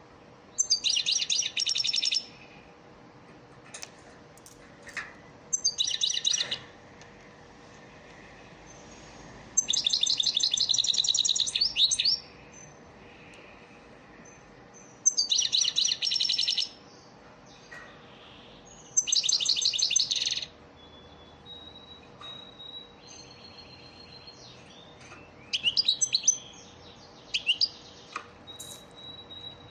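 European goldfinch singing its twittering song in repeated bursts of rapid chirps, each phrase one to two and a half seconds long with short pauses between, and a thin held note in one of the pauses. This is goldfinch song of the kind played as a tutor song to young captive goldfinches.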